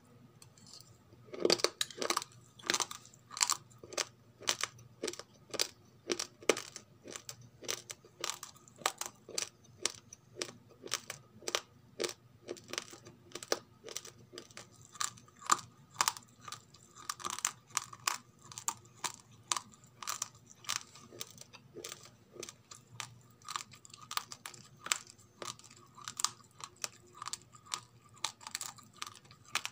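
Raw, uncooked rice grains being chewed, crunching between the teeth in a steady rhythm a little over twice a second, starting about a second and a half in.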